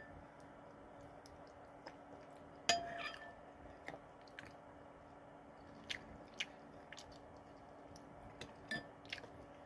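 Quiet chewing of canned SpaghettiOs, with soft mouth sounds and a few light clicks, some with a brief ring. The loudest click comes about three seconds in.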